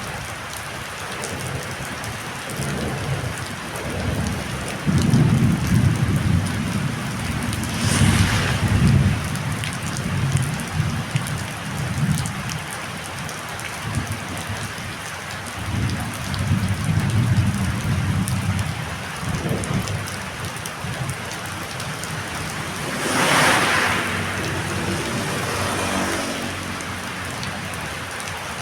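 Heavy rain falling steadily in a windy storm, with deep rumbles that swell and fade and two brief loud whooshes, about eight seconds in and again near the end.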